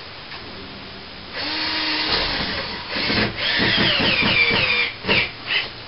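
Power drill driving screws into a plasterboard ceiling: runs of motor whine that rise and fall in pitch, ending in two short bursts.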